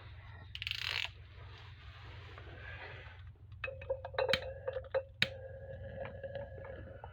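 Butane torch lighter hissing as its jet flame burns, then a steady whistling tone. Light metallic clicks and clinks, like tea-light tins being moved, come about four seconds in.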